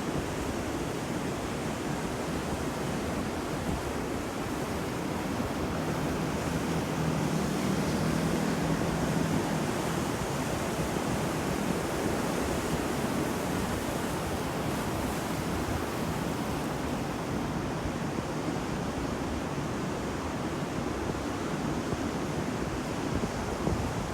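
Ocean waves breaking and washing on a shore, a continuous surf wash that swells a little partway through, with some wind.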